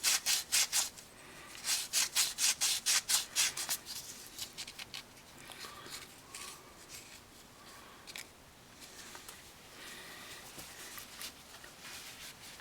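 Emery cloth rubbed back and forth on a steel brake caliper slide pin, about five quick scratchy strokes a second in two runs. After about four seconds it gives way to fainter, scattered scraping and handling sounds.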